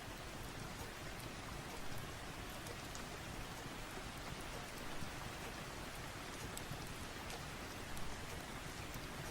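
Steady rain, an even hiss, with scattered faint ticks and a few slightly louder pops, about two, five and eight seconds in.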